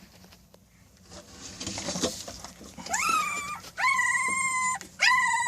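Nine-day-old American Bully puppy whining: three high-pitched cries, each rising and then held, starting about three seconds in after some soft rustling. The owner takes it as the pup complaining about a littermate lying on top of it.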